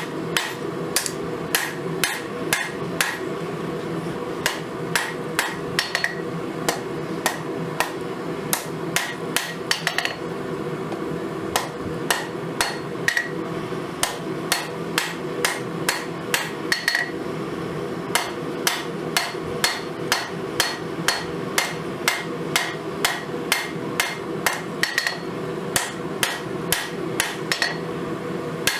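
Hammer forging hot spring steel on an anvil: steady runs of sharp blows, about two to three a second with short pauses between runs, some blows ringing briefly. A steady hum sits underneath.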